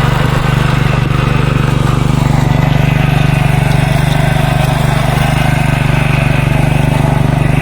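Small single-cylinder engine of a walk-behind power tiller (two-wheel hand tractor) running steadily at a constant speed.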